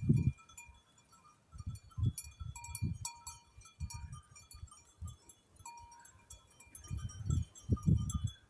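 Swallows twittering in quick, high chirps, over irregular low rumbling bursts.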